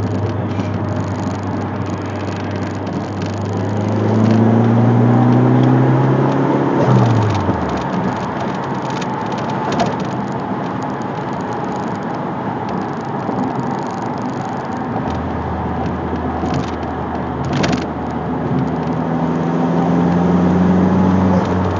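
Turbocharged Dodge Neon's four-cylinder engine, heard from inside the cabin while driving. The engine note climbs in pitch under acceleration for a few seconds, drops away sharply, holds steady, then climbs again near the end.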